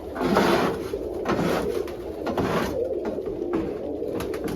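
Domestic pigeons cooing, with a few short rustling noises in the first few seconds.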